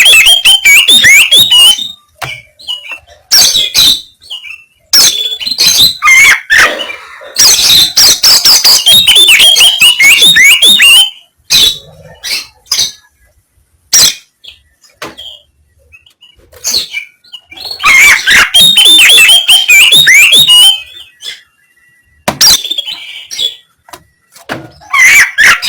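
Oriental magpie-robin (kacer) singing loud, harsh, rapid chattering phrases in bursts of one to three seconds, with short pauses between them.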